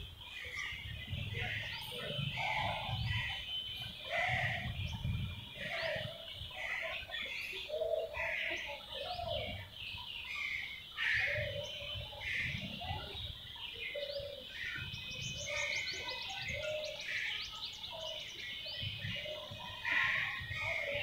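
Several birds chirping and calling in short, repeated notes, with a fast high trill about two-thirds of the way through. A steady high-pitched whine runs underneath, and a low rumble comes and goes.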